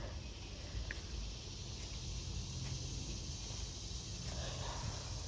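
Cicadas droning as a steady high hiss in the trees, over a low rumble.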